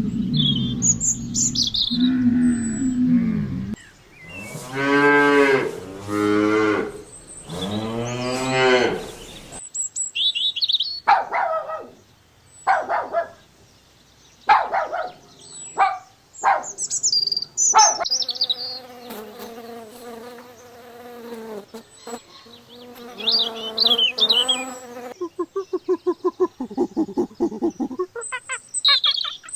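Cattle mooing: a series of long, low calls that bend in pitch, with shorter and steadier calls between them. High bird chirps run over the top.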